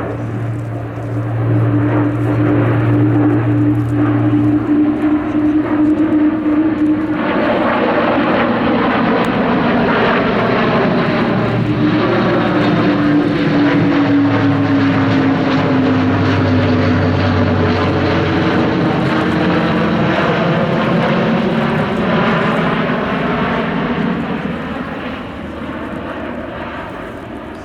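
Airbus A400M's four turboprop engines with eight-bladed propellers droning as it flies a display pass. The propeller hum grows louder about seven seconds in, its pitch slides slowly down as the aircraft goes by, and it fades near the end.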